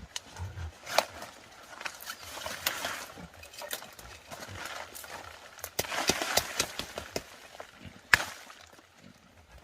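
Rustling with a scattered series of sharp cracks and knocks, the loudest about a second in and just after eight seconds.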